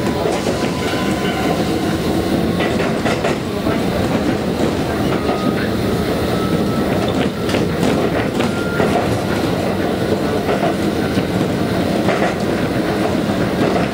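Konan Railway Konan Line electric train running, heard from inside the passenger car: a steady rumble with the clack of wheels over rail joints.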